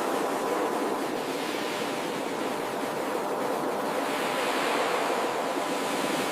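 Ocean surf washing on a beach, a steady rush of breaking waves that swells a little around the middle.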